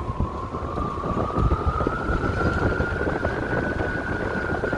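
Electric motorcycle motor whining as it accelerates, the whine climbing in pitch for about two seconds and then holding steady, over wind rushing on the microphone.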